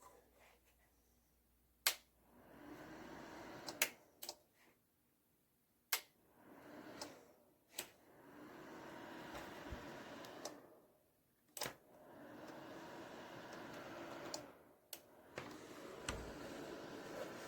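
Small PTC space heater being switched on and off: sharp clicks of its controls, each followed by its fan running with a steady whoosh and faint hum that builds, holds for a few seconds and dies away.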